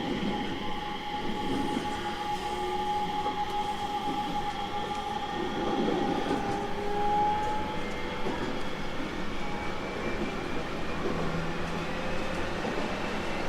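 JR East 701 series 1000-subseries electric train running, with motor whine over wheel and rail noise. A steady whine fades out about eight seconds in, then a new whine slowly rises in pitch as the motors speed up.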